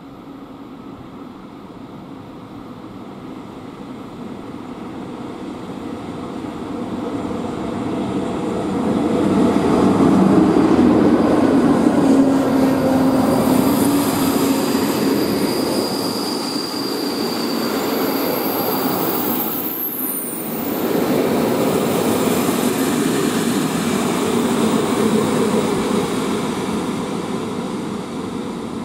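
Locomotive-hauled InterCity train, led by a MÁV V43 "Szili" electric locomotive, pulling into the station. The rumble of wheels on rails grows louder over the first ten seconds and then holds, with high-pitched wheel and brake squeal from about twelve to twenty seconds in as the train slows.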